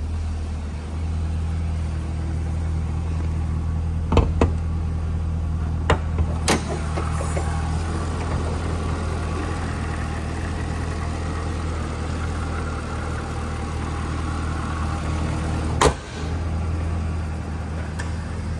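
A 556 hp supercharged 6.2 L V8 in a 2012 Cadillac CTS-V idling steadily. A few sharp clicks and knocks come around four to six seconds in, and there is one loud thump at about 16 seconds as the hood is shut.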